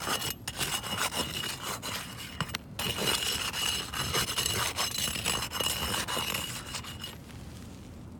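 Gritty rubbing and scraping with many small clicks and a faint steady high whine, stopping about seven seconds in.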